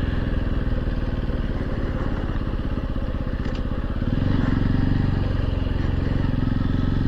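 Honda XR150L's single-cylinder four-stroke engine running steadily under way, its pitch and loudness rising a little about four seconds in.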